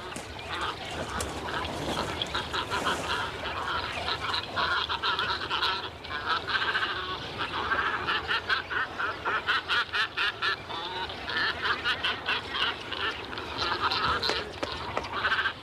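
A cormorant nesting colony calling: many overlapping bouts of rapid, pulsed, rattling calls, one after another with short gaps.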